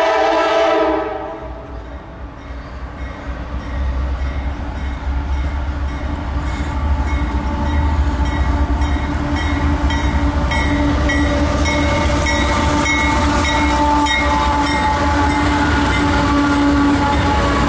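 CSX freight locomotive's air horn sounds a chord that cuts off about a second in. Then the diesel locomotives heading an empty autorack train approach and pass, their engines' low rumble growing steadily louder, with a regular clicking of wheels on the rails.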